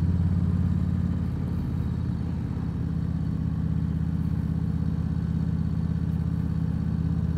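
Harley-Davidson Low Rider ST's Milwaukee-Eight 117 V-twin running steadily under the rider at an even cruise.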